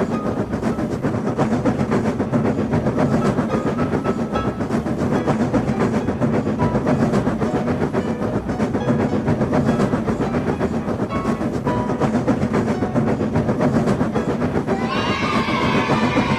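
A train running, its wheels clattering quickly and evenly over the rail joints above a steady low rumble. About a second and a half before the end, a higher pitched sound with several tones starts over it and falls slightly in pitch.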